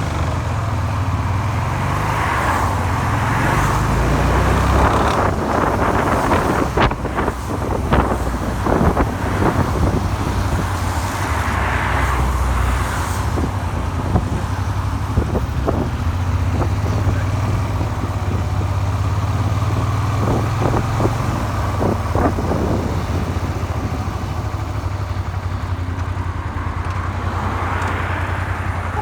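Suzuki SV400's V-twin engine running on the move, its pitch rising and falling with the throttle, with wind rushing over the microphone and scattered sharp clicks through the middle. The engine is one that knocks after a makeshift crankshaft repair done with a file.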